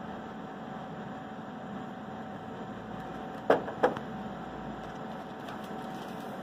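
Car air-conditioning recovery machine running steadily, with a steady hum, as it pumps refrigerant gas out of the car's AC system. Two sharp clicks come close together about three and a half seconds in.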